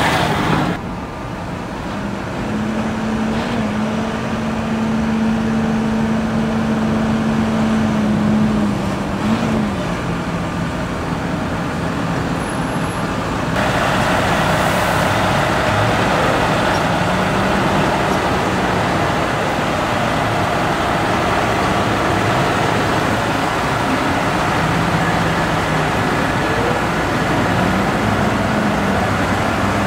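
Large farm tractor diesel engines running under work, their pitch rising and falling. The sound changes abruptly partway through, as if to another machine.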